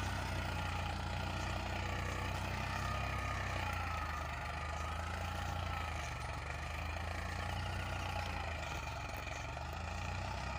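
Farmtrac 45 tractor's diesel engine running steadily while pulling an 11-tine cultivator, its pitch wavering slightly up and down under the load.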